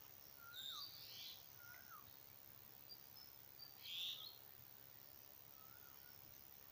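Faint birdsong: one bird repeats a short, hooked whistled note three times, and another gives higher twittering chirps twice, loudest about four seconds in.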